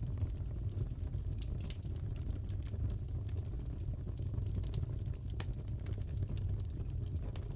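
Crackling wood fire in a fireplace: irregular sharp pops and snaps over a steady low rumble.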